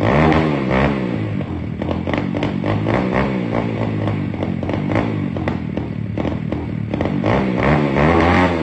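125cc pit bike engine running, revved up and down a few times near the start and again near the end, with a clattery mechanical rattle throughout.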